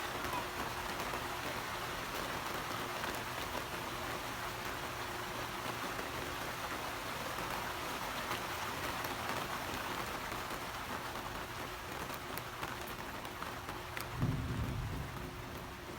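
Steady rain falling, an even hiss. About fourteen seconds in, a low rumble of thunder swells up.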